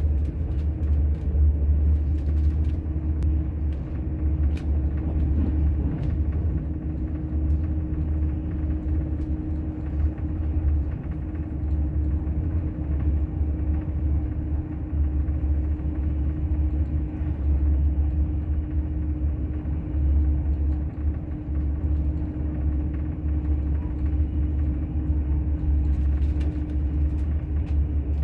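Cabin rumble of the Al Boraq high-speed train running at speed, heard from inside the upper deck of the double-deck carriage: a steady deep rumble with a constant hum above it that fades out near the end.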